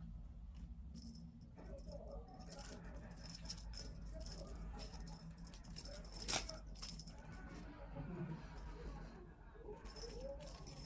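Light rattling and jingling from a cat at play, with one sharp click about six seconds in.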